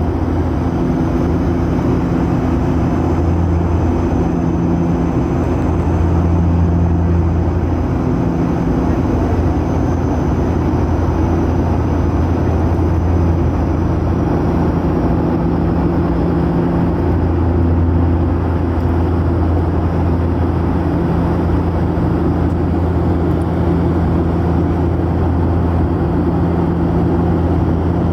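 Steady low drone of a propeller aeroplane's engine heard from inside the cabin, a deep hum with slowly swelling and fading overtones over a rush of air noise.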